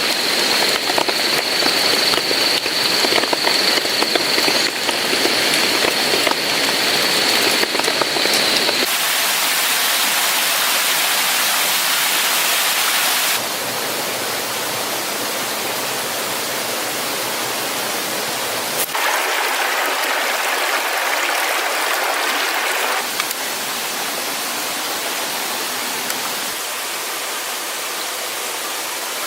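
Rushing water of a waterfall and stream, a steady noise whose character changes abruptly several times. For the first nine seconds a steady high whine and crackling sit over the water noise.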